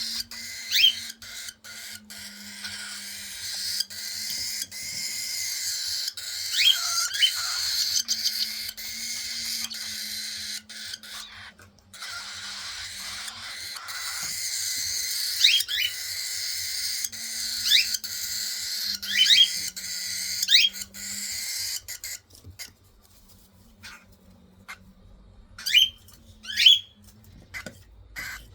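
Baby cockatiels giving their begging calls while being hand-fed: a steady raspy hiss with short, sharp rising chirps that come again and again, and scattered clicks.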